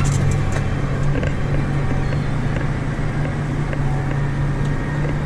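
Farm tractor's diesel engine running steadily, a constant low drone.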